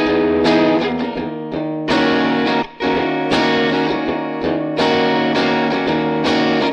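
Electric guitar playing a series of strummed chords, each one ringing out until the next.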